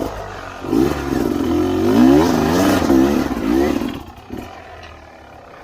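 Trail motorcycle engine revving hard in quick rises and falls for about three seconds, then easing back to a lower, quieter run.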